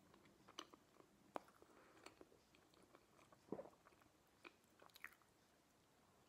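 Faint chewing of a slice of stuffed pizza, close up: scattered soft mouth clicks and smacks, the loudest about three and a half seconds in.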